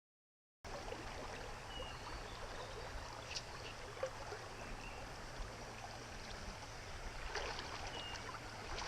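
Creek water flowing steadily, starting abruptly after a moment of silence, with a few faint short high chirps over it.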